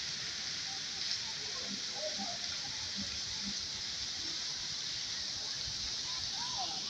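Heavy rain pouring onto a flooded street, a steady, even hiss.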